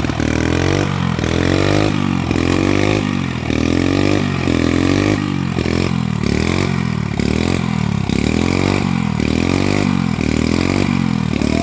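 Small petrol engine revved up and dropped back over and over, roughly once a second.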